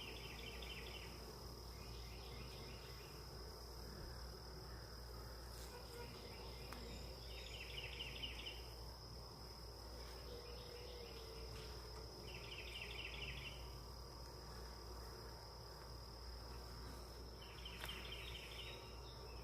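Insects calling: faint pulsed chirps of about a second each, repeating every few seconds, over a steady high-pitched drone.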